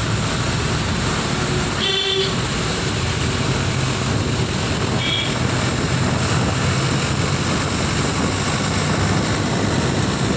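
Steady road noise of a vehicle driving, with a low engine hum under a hiss of wind and tyres. A vehicle horn toots briefly about two seconds in, and a shorter, fainter honk follows around five seconds.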